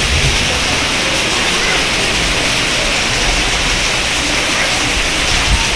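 Heavy monsoon rain falling, a steady loud hiss. A couple of brief low thumps on the microphone come near the start and near the end.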